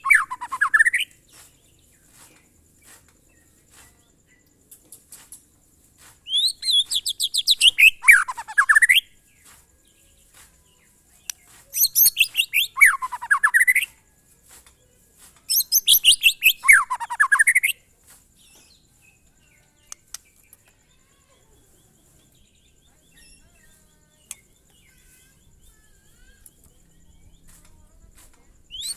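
White-rumped shama (murai batu) singing in the monotonous, repetitive 'glondong' style: three similar phrases, each a quick run of notes sliding down in pitch over two to three seconds, separated by short pauses. The last ten seconds are nearly quiet.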